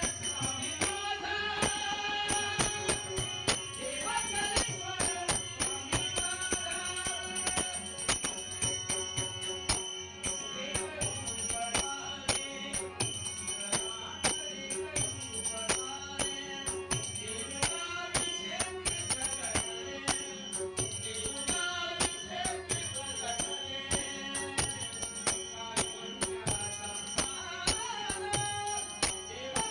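Marathi devotional folk song (langar geet) sung by a male voice over a steady percussion beat with jingling metal percussion.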